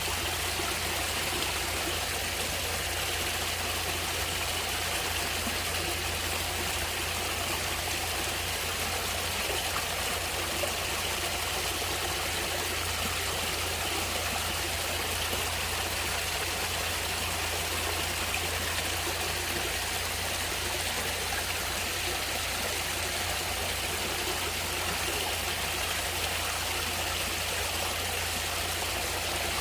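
Steady rushing and trickling of a stream of running water, unchanging throughout.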